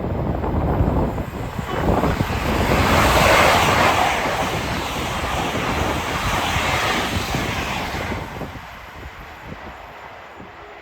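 A train passing through the station, its rushing noise swelling to a peak a few seconds in and fading away by about eight seconds. Wind buffets the microphone throughout.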